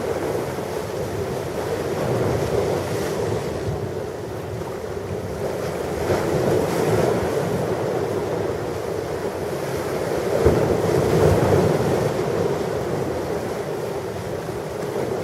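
Ocean waves washing on a shore, a steady rush that swells and ebbs every few seconds, with a brief low thump about ten seconds in.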